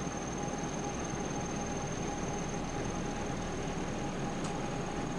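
Steady background hiss with a faint constant high whine and hum: the room's tone and sound-system noise.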